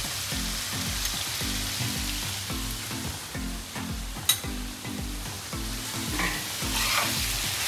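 Chicken masala sizzling steadily in desi ghee on a tawa, with a sharp click about four seconds in and a spatula scraping the pan a few times near the end. Soft background music with a steady low beat runs underneath.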